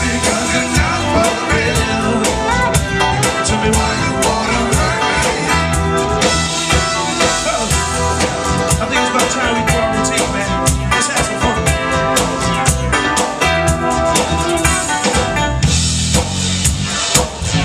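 Live soul band playing loud with drum kit, guitar and some singing, recorded on a small camcorder's microphone.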